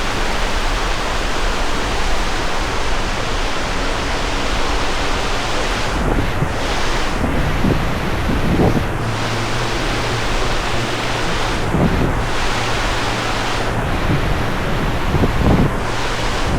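Surf washing on a beach under a steady rush of wind, with gusts buffeting the microphone in low thumps a few times.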